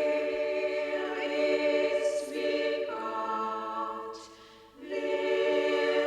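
Choir singing slow, sustained chords. The harmony shifts to a higher chord about three seconds in, fades briefly, then a new held chord begins near the end.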